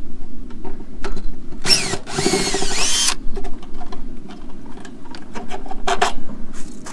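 Electric drill with a nut-driver bit running in one burst of about a second and a half, its motor whine rising and falling, as it buzzes fasteners off. A brief second burst comes near the end, among scattered clicks and knocks of tools being handled.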